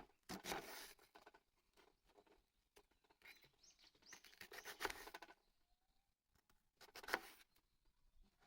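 Faint, intermittent rustling and handling noises in three short spells, the last one brief.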